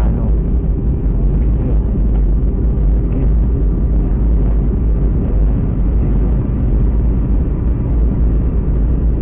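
Steady low noise of a passenger jet's engines and airflow, heard from inside the cabin.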